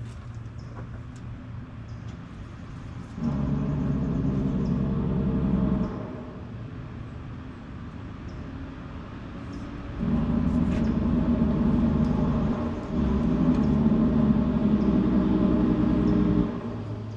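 Sawmill machinery: a steady engine hum, with a louder motor running three times for a few seconds each.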